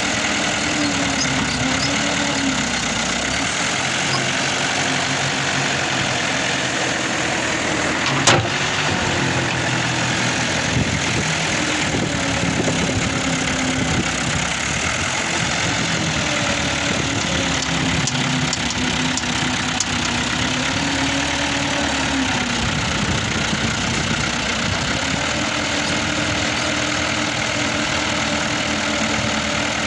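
New Holland 640 tractor's diesel engine running steadily, its pitch dipping and recovering several times. A single sharp clank about eight seconds in.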